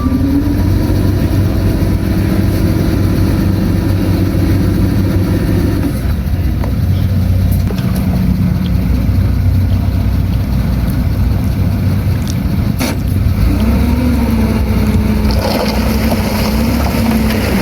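Heavy earthmoving machine's diesel engine running steadily at working load, its pitch dropping a little about six seconds in. A single sharp knock comes about thirteen seconds in.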